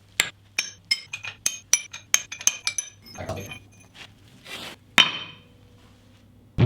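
Metal clinking and ringing: a quick run of light, bright metallic taps, a little scraping, then one louder ringing strike about five seconds in, over a low steady hum.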